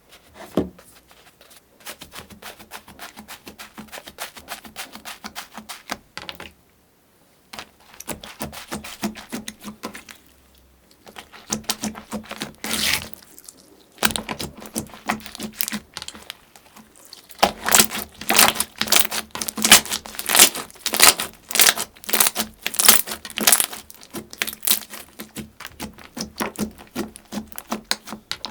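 Slime being squeezed and pressed by hand close to the microphone: dense runs of crisp crackles and pops. It comes in several stretches broken by short pauses and is loudest in the last stretch.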